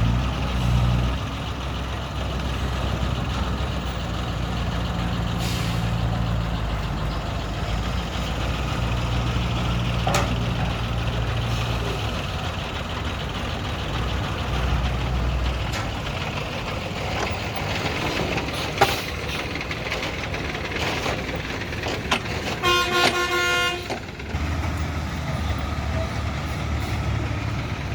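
Heavy vehicle engine running with a low rumble, as a bus manoeuvres onto a ferry. A vehicle horn sounds once, for about a second, past the middle.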